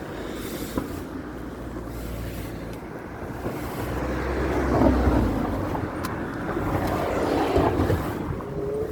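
Wind buffeting and rumble on a phone microphone carried in a pocket while riding a bike through the street, swelling twice in the middle.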